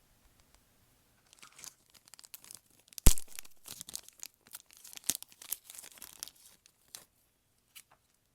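Slime being worked by hand, giving an irregular run of crackles and pops, with one loud sharp pop about three seconds in.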